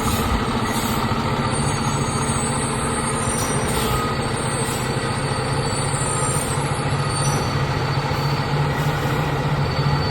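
Fire truck's diesel engine running steadily with a continuous low drone.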